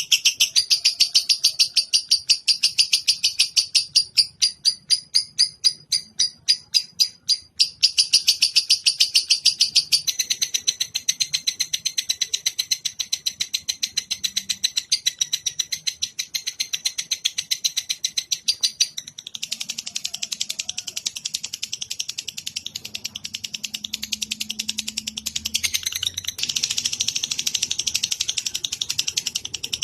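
Songbird-training recording: a high-pitched, rapid trill of many evenly spaced pulses a second. Its pattern shifts several times, with a gap-filled stretch around 4 to 8 seconds in and a change in tone near 19 and 26 seconds.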